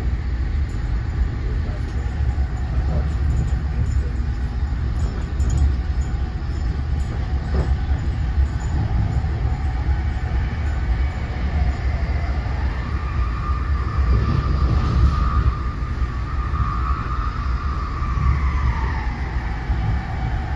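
Cabin noise inside an NJ Transit Multilevel passenger coach running at speed: a steady low rumble of wheels on rail. A whining tone rises about twelve seconds in, holds, and drops away near the end.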